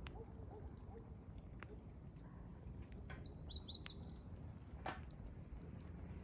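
Firewood burning in a campfire, a low steady crackle with a few sharp pops. A small wild bird sings a quick run of high chirps about three seconds in.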